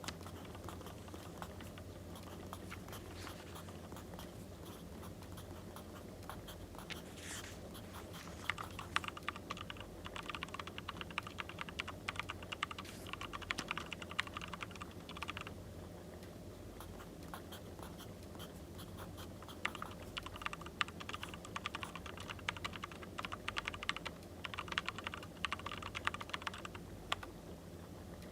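Pen or pencil writing on paper in two long bursts of quick scratchy strokes, over a steady low background of fireplace crackle.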